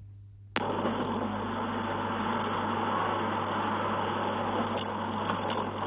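A click about half a second in, then steady car engine and road noise.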